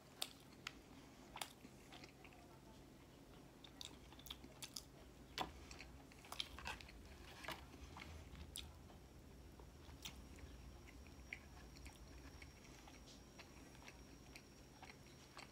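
Faint close-up chewing of a Filet-O-Fish sandwich: scattered small mouth clicks and smacks over a quiet background.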